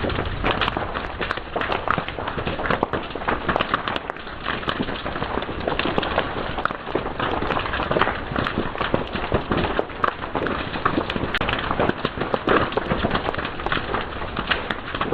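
Fire crackling steadily, with many quick irregular snaps and pops over a continuous hiss.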